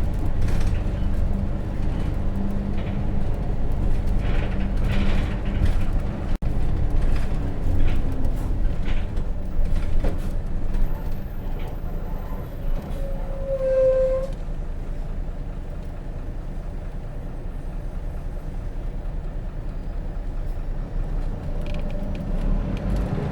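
Interior ride sound of a 2004 Hino RJ bus with its J08C inline-six diesel engine running under way, with rattles and creaks from the body. About 14 s in, a short squeal from the drum brake shoes as the bus slows; after that the engine runs quieter and steadier.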